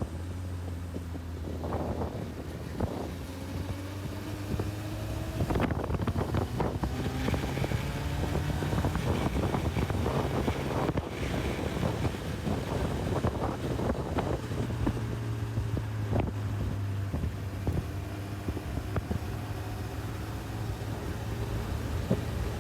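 Honda CB1000R's inline-four engine running on the road, its pitch rising and falling several times, with wind rushing over the microphone.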